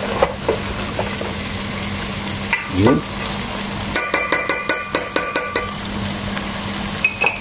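Pork pieces and onion frying in a pot with a steady sizzle, stirred with a metal spoon. About four seconds in, a quick run of metallic clicks and scrapes from the spoon against the pot lasts under two seconds.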